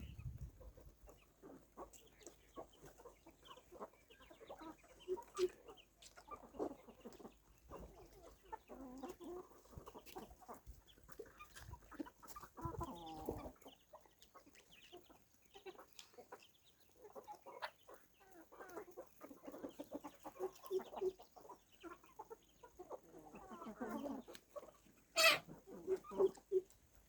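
A flock of free-ranging desi chickens clucking and calling on and off, with several birds overlapping at times. A few sharp clicks and knocks break in, the loudest about 25 seconds in.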